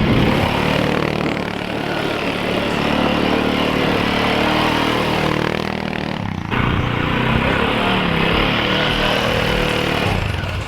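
A motor engine running steadily, its note breaking off and picking up again about six seconds in.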